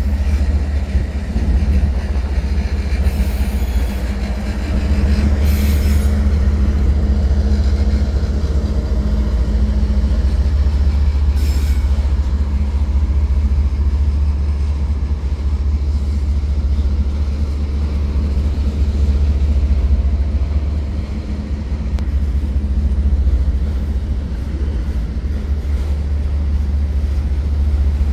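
Two BNSF GE diesel freight locomotives, a C44-9W and an ES44C4, pass hauling a train of autorack cars, with a deep, continuous engine rumble and a steady low drone. The rolling rail cars keep up the rumble after the engines pass. Three brief high squeals come in the first dozen seconds.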